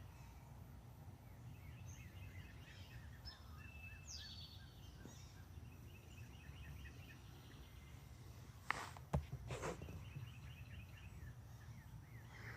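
Songbirds chirping faintly, long runs of quick repeated short chirps with a falling whistle about four seconds in, over a low rumble of breeze on the microphone. About nine seconds in, a brief cluster of sharp clicks and rustling is the loudest sound.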